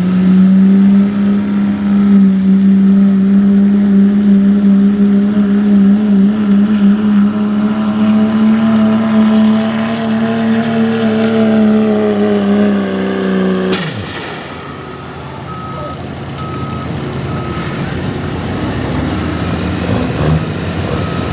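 Diesel 4x4 pickup engine, the Cummins of a 2004 Dodge, held at high revs under full load while pulling the sled, with a thin high whine over it. After about 14 seconds the engine note cuts off suddenly as the driver lets off at the end of the pull, leaving quieter engine and ambient noise.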